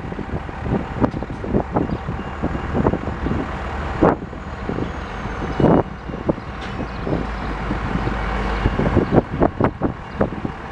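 Freight train of tank cars and flat cars rolling through a grade crossing: a steady low rumble with irregular, rapid clacks and knocks as the wheels pass over rail joints.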